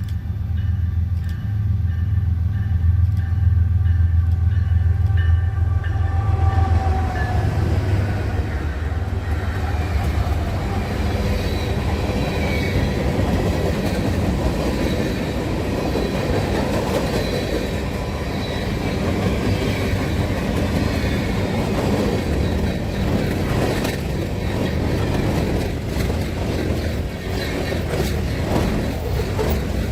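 Diesel locomotives passing with the low, steady engine sound for the first several seconds, then railroad cars rolling by with wheel noise, faint wheel squeal and clicking over rail joints.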